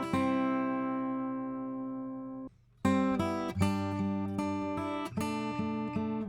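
Acoustic guitar strumming heard through a Warm Audio WA-2A optical compressor set to limit with pre-emphasis. One chord rings for about two and a half seconds and is then stopped short. After a brief gap, a run of strummed chords begins.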